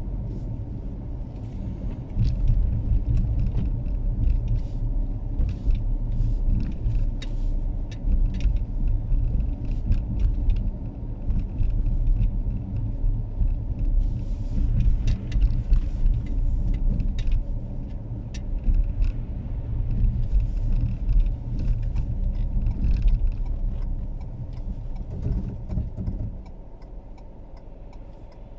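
Car road noise heard from inside the cabin while driving on a snowy road: a steady low rumble of tyres and engine, with scattered short clicks over it. Near the end the rumble falls away sharply.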